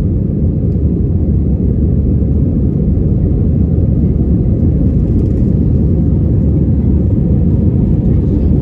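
Steady low rumble of engine and airflow noise inside the cabin of an Airbus A320 airliner in flight.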